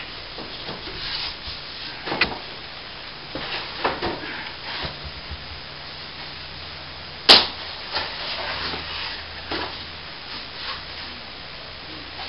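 Fallen plaster ceiling debris being handled and cleared: scattered scrapes and knocks of broken plasterboard pieces, with one sharp, loud crack or clatter about seven seconds in.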